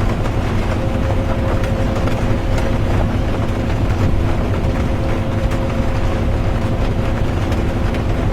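Inside a moving bus: a steady low engine and road rumble with a constant drone, and light rain with faint scattered ticks.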